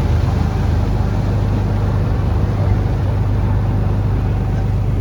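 Taxi boat's engine running steadily, a constant deep drone under a rushing noise.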